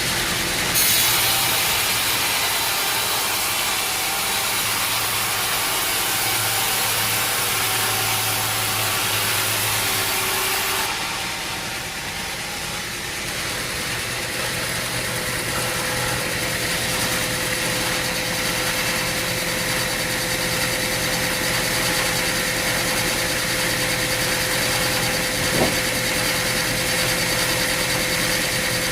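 Sawmill machinery running: a steady engine-driven drone with a loud hiss that stops about eleven seconds in, then a steady hum with a single sharp knock near the end.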